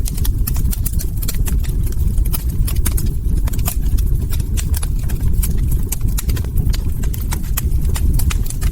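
Log fire crackling: frequent, irregular sharp pops and snaps over a steady low rumble of burning.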